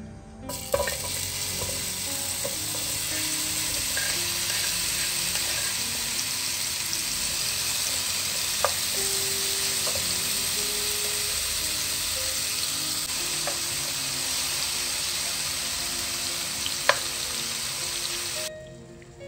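Marinated cauliflower florets sizzling as they fry in oil in a nonstick pan and are stirred with a spatula, with a few sharp clicks of the spatula against the pan. The sizzle starts about half a second in and cuts off suddenly near the end.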